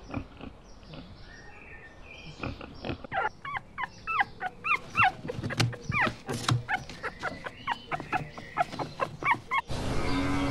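A dog whimpering and yipping: a quick run of short, high whines and yelps starting about two and a half seconds in. They stop abruptly near the end.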